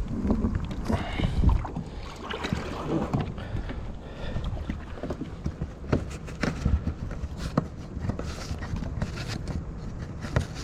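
A kayak being handled and tied in at the stern in shallow water: scattered knocks and thumps against the hull with water sloshing, over a low rumble of wind on the microphone.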